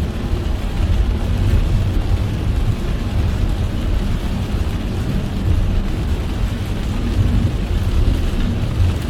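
Car driving in heavy rain: a steady low rumble of road and engine noise with the even hiss of rain over it.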